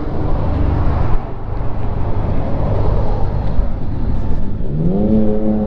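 Motor vehicle engine running with a heavy low rumble; near the end an engine's pitch rises and then holds steady.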